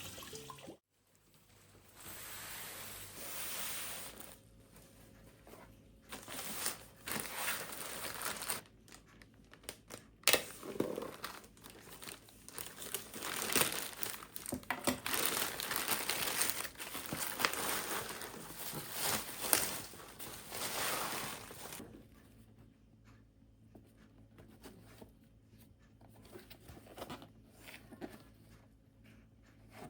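Irregular crinkling and rustling from something being handled, busiest through the middle and quieter in the last several seconds, with a sharp click about ten seconds in.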